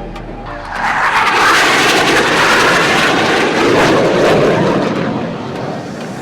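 A BAE Hawk jet trainer passing close overhead. Its engine noise swells about a second in, holds loud, then drops in pitch as it goes by and fades near the end.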